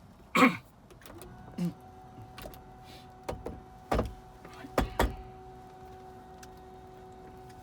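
Helicopter cabin before engine start: a short falling squeak near the start, then a steady electrical hum of two tones comes on about a second in and holds, while several sharp clicks and knocks come from switches and fittings being handled.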